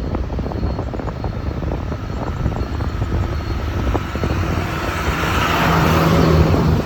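Riding a TVS Ntorq scooter on a rough road: steady engine and road rumble with many small knocks from the bumps. A passing vehicle's noise swells near the end and cuts off.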